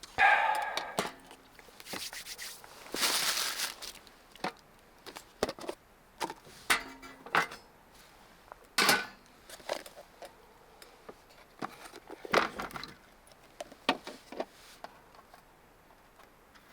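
Scattered clicks, taps and brief rustles of small objects being handled and set down, with a short ringing clink at the start.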